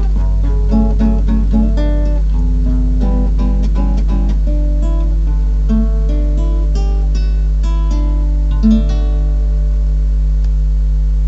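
Solo acoustic guitar playing the closing phrases of a piece, plucked notes and chords that slow down, with a last chord ringing out from about nine seconds in. A steady low hum runs underneath.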